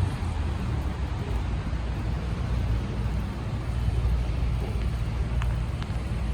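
Steady city traffic rumble on a rainy street, with an even wet hiss over it and a few faint ticks near the end.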